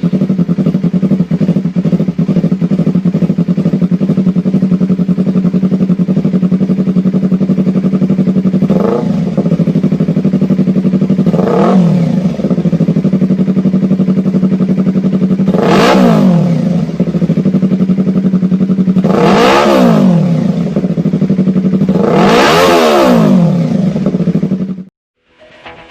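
Yamaha MT-03 motorcycle engine idling through an aftermarket exhaust, with the throttle blipped five times, each rev rising and dropping back to idle. The first two revs are small and the last three higher. The sound cuts off suddenly near the end.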